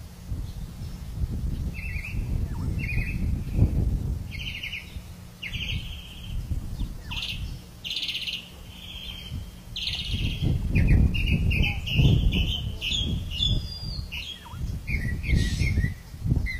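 Wild birds chirping in short, quick repeated calls, more often in the second half, over an uneven low rumble.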